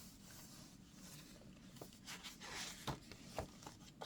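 Faint rustling of handmade journal paper pages being handled and turned, with a few soft taps and rustles in the second half.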